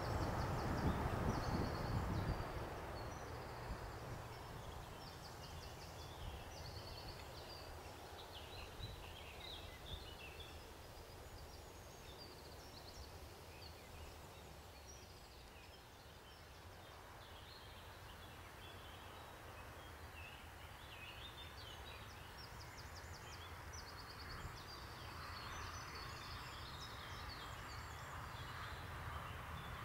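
Small birds chirping and trilling over quiet outdoor background noise. A low rumble fades away during the first two seconds or so.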